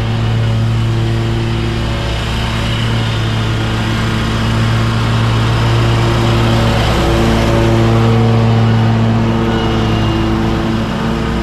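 Lawn mower engine running steadily under load while mulching leaves, with the rush of the cutting deck mixed in.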